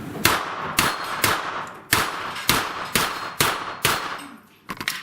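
A string of gunshots at steel plates: about eight shots roughly half a second apart, then two more in quick succession near the end, each with a short ring of steel after it.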